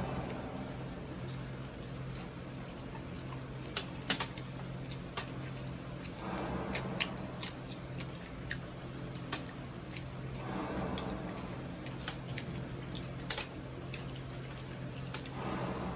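Close-up chewing of crispy pata (deep-fried pork knuckle), with scattered sharp crackles and clicks and a few softer swells of mouth noise, over a steady low hum.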